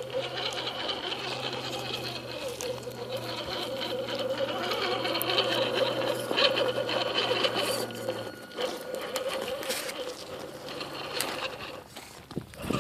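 A small motor running steadily, stopping about eight seconds in, then running again briefly near the end.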